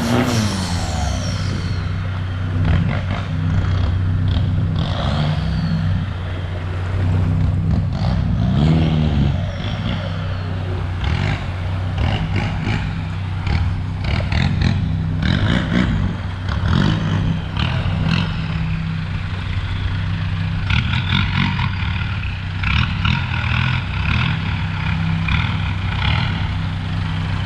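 Suzuki Caribian 4x4's engine running and working off-road, rising and falling with the throttle, with many short knocks and clatters from the vehicle over rough ground.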